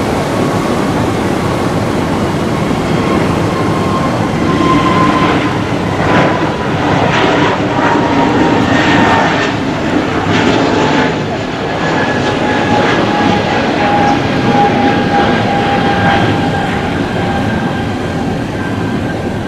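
Airbus A320neo jet airliner with CFM LEAP-1A engines, running loud and steady as it passes, with a fan whine that slowly falls in pitch. The noise swells through the middle and eases near the end.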